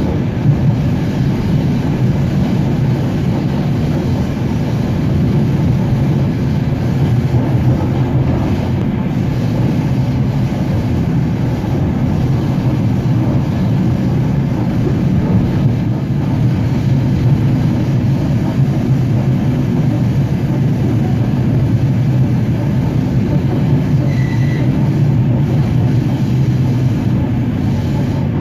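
Suburban electric train (elektrichka) running steadily along the line, heard from inside the carriage vestibule: a continuous loud rumble of wheels on rails and car body noise.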